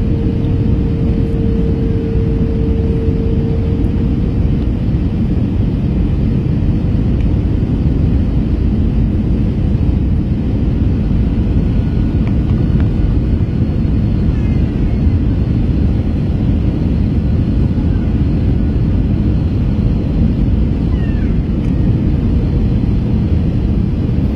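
Steady low rumble of engine and airflow noise inside the cabin of an Airbus A321 in flight. A faint steady hum fades out in the first few seconds.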